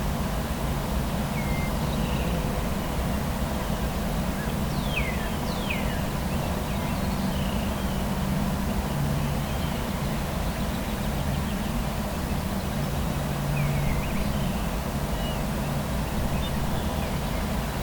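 A steady low rumble of distant road traffic, with small birds chirping now and then. Two quick falling whistles come about five seconds in.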